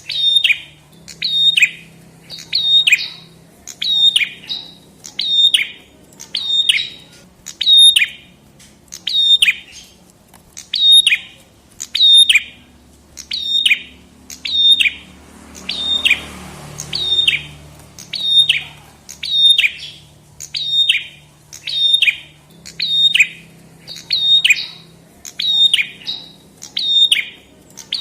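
Prenjak kepala merah (red-headed prenjak, a small tailorbird-type warbler) calling over and over: one sharp, high note that falls in pitch, repeated steadily about every 0.8 seconds. A faint low hum sits underneath.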